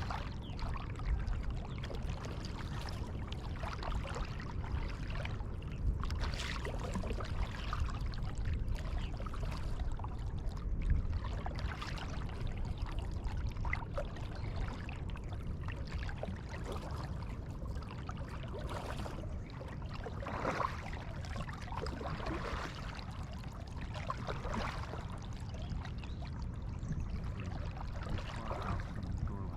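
Kayak paddle strokes: water splashing and dripping off the paddle blades every couple of seconds, over a steady low rumble.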